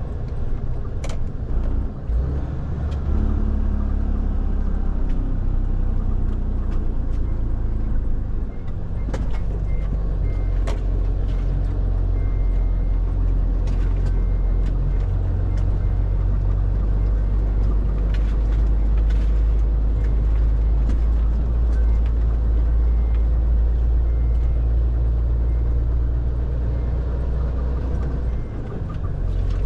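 FAW JH6 truck's diesel engine droning steadily under load as it crawls along a muddy gravel road, with scattered knocks and rattles. The drone dips briefly about eight seconds in and again near the end.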